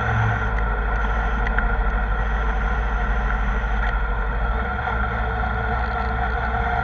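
Kawasaki ZR-7S motorcycle's inline-four engine running at a steady speed while riding.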